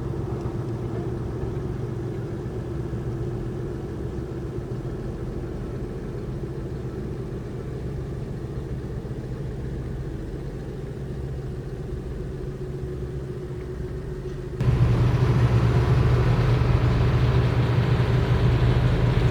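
Fishing boat engines running with a steady low rumble and hum. The sound gets suddenly louder about fourteen seconds in.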